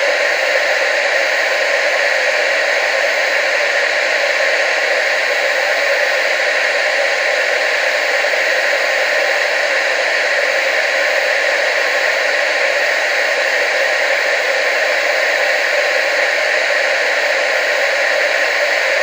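Television static: a steady, even hiss with no low end, unchanging throughout.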